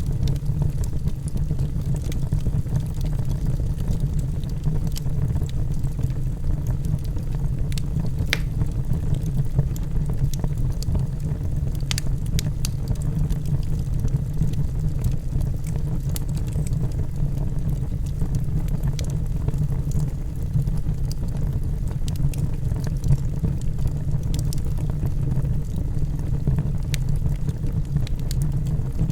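Logs burning in a fireplace: a steady low rumble of the flames with scattered sharp crackles and pops from the wood, the clearest pops about eight and twelve seconds in.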